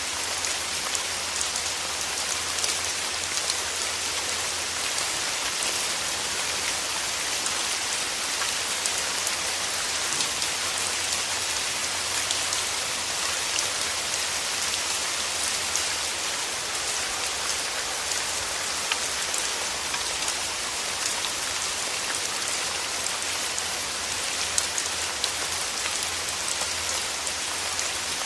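Steady rain falling, a dense even patter of fine drop ticks on leaves and petals.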